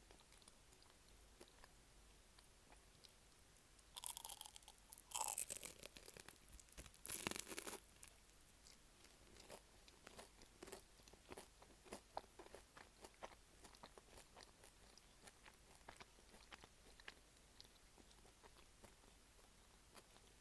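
Close-up eating of a beef stew pie: three loud crunches of crispy, flaky pastry being bitten between about 4 and 8 seconds in, then quieter chewing with small crackles and wet clicks.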